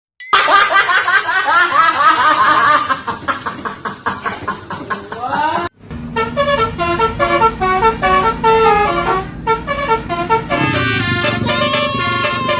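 Multi-tone telolet bus horn playing tunes. Wavering tones come first, then a tune of separate stepped notes from about six seconds in, with a new sliding tone near the end.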